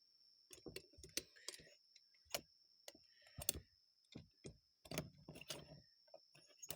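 Faint, irregular clicks and taps of small metal carburetor parts and tools being handled and fitted together, over a faint steady high-pitched whine.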